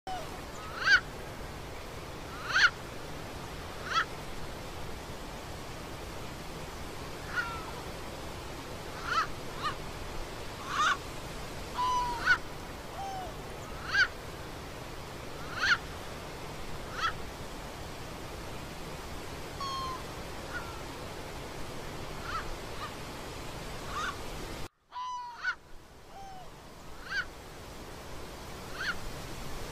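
A bird gives a short, sharp call over and over, roughly every one and a half seconds, with a few other brief downward-sliding calls among them, over a steady outdoor hiss. The sound cuts out for a moment near the end, then the calls carry on.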